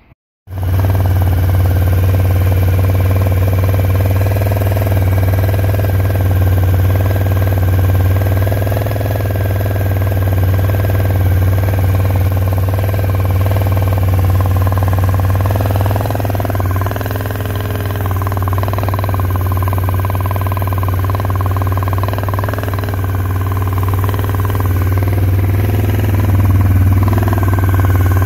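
Suzuki TL1000S 90-degree V-twin engine idling steadily. It cuts in suddenly and keeps an even note, growing slightly louder near the end.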